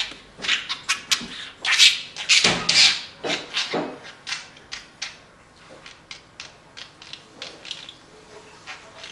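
Pet budgerigar chattering in a rapid string of short chirps, played back slowed down; loud for the first four seconds or so, then softer.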